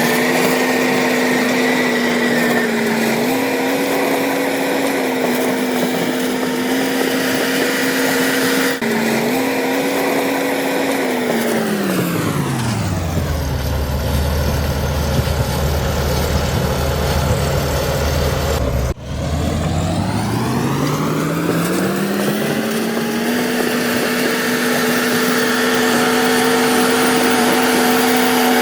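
Komatsu D61EX bulldozer's diesel engine revving up and running at high revs under work, dropping to idle about halfway through, then revving back up and holding high again.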